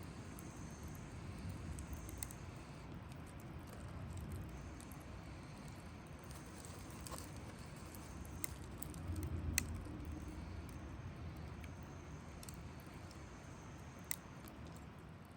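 Campfire burning with a low steady rumble and a few sharp crackles, one about every few seconds, the loudest near ten seconds in.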